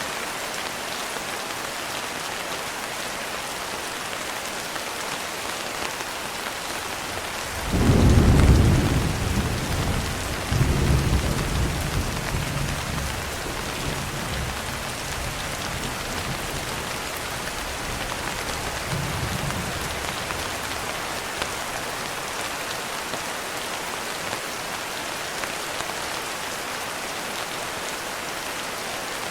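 Steady rain falling, with a roll of thunder breaking in about eight seconds in. The thunder rumbles low in two swells and dies away over about twelve seconds.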